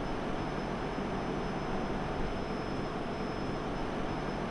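Train running past, a steady rolling rumble with a thin high whine held throughout.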